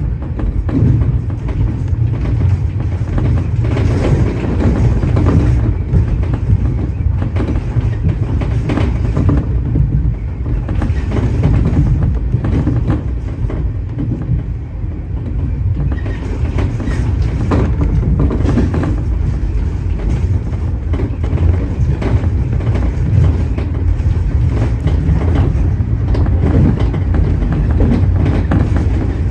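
Tobu 30000 series electric train running at speed, heard from inside the front car: a steady rumble of wheels on rail with repeated clickety-clack clicks over the rail joints.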